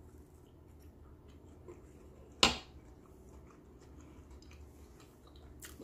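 Quiet chewing of a mouthful of pancake and egg, with faint small mouth clicks, and one sharp click about two and a half seconds in.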